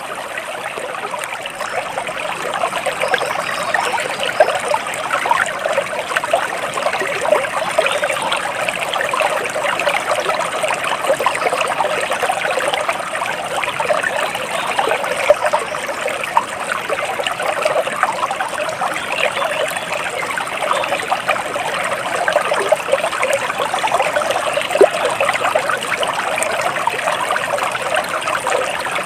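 Water flowing and trickling steadily, a continuous babble of small splashes as in a small stream.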